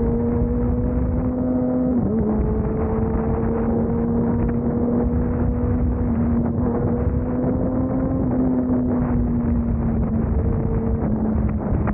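Motorcycle engine running at a steady cruising speed, its pitch drifting slowly up and down, with a brief sharp dip in pitch about two seconds in, over low wind rumble.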